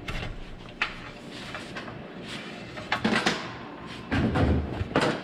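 Clunks and rattles of a miter saw and its metal Hercules saw stand being handled. The loudest and heaviest knock comes about four seconds in.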